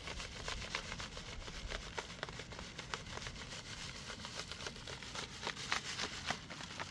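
Irregular light clicks and crackling, several a second, over a low background hiss.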